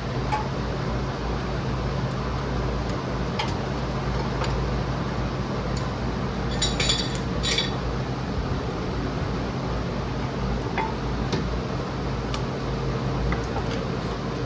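Metal pieces clinking together in a short cluster about seven seconds in, with a few lighter ticks elsewhere, over a steady low hum.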